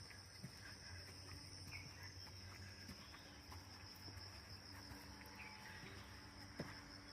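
Faint, steady high-pitched trilling of crickets and other insects, with one short click about six and a half seconds in.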